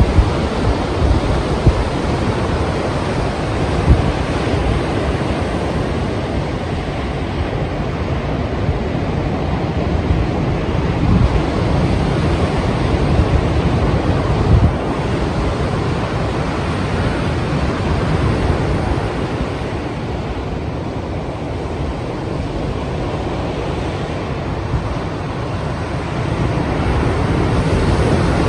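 Strong sea surf breaking and rushing, with wind noise on the microphone and a few sharp thumps in the first four seconds. The surf swells louder again near the end.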